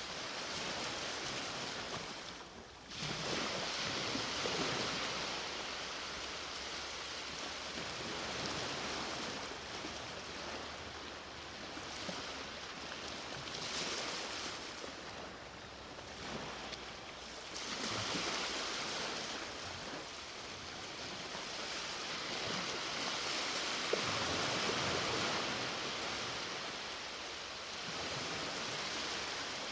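Ocean waves breaking and washing up a beach: a steady rush of surf that swells and ebbs, with a short lull just before a wave surges in about three seconds in.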